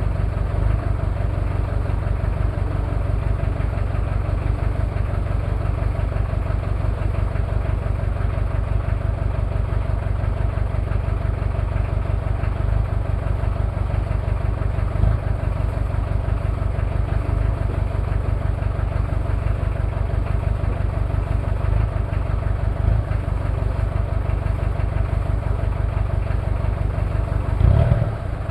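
Toyota 2L-T 2.4-litre four-cylinder turbo-diesel idling steadily, an engine the owner says has one bad injector and possible cylinder head problems. The engine speeds up briefly near the end.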